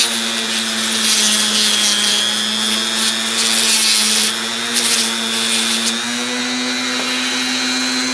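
Small rotary tool running steadily at a high speed with a small wheel fitted, working on a steel socket. Bursts of high hiss come and go as the wheel bears on the metal, and the motor's pitch rises a little about six seconds in.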